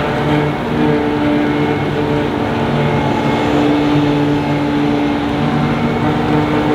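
Heavy farm machinery's diesel engine running steadily under load during grass harvesting, with a steady drone over a dense mechanical rush.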